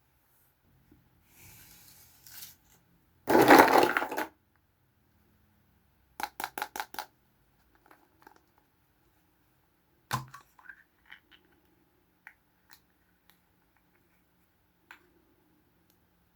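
Small plastic Kinder Surprise toys and their packaging being handled: a soft rustle, then a loud crinkle about three seconds in, a quick run of about six sharp clicks, and a hard tap a few seconds later followed by scattered light clicks and taps.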